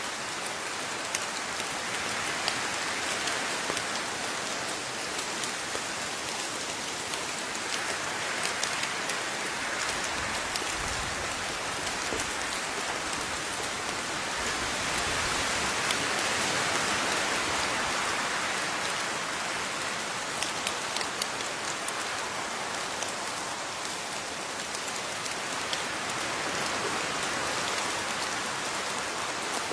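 Steady rainfall with individual drops pattering onto a surface, the rain swelling a little and easing off again.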